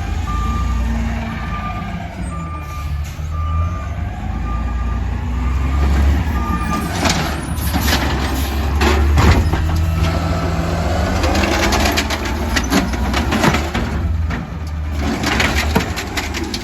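Compost collection truck's engine running, its reversing alarm beeping about once a second. The beeping stops about seven seconds in, and a run of clattering and knocking follows.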